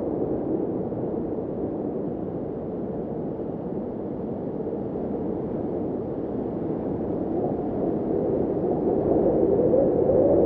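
Howling blizzard wind, a steady deep rush that eases a little midway and swells louder near the end.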